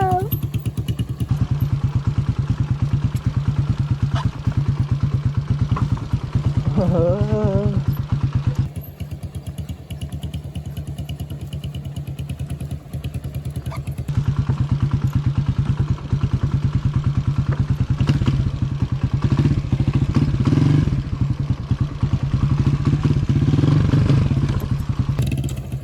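Motorcycle engine running at low speed with a rapid, even firing beat as the bike creeps along. It drops quieter for about five seconds in the middle, then picks up again.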